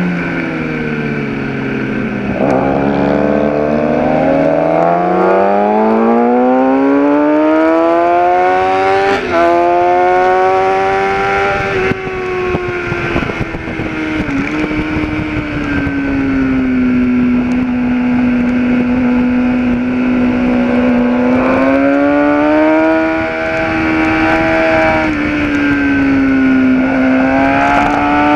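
Kawasaki ZX-10R inline-four engine heard onboard, with rushing wind. Revs fall in the first couple of seconds, climb steadily to high revs, drop and hold level through the middle, then rise twice more near the end.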